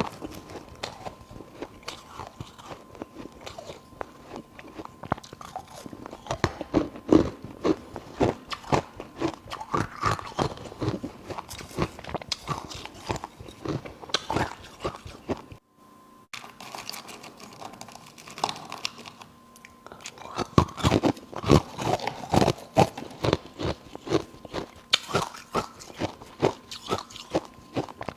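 A person biting and chewing ice close to the microphone: dense, irregular crunching with one short break about halfway through.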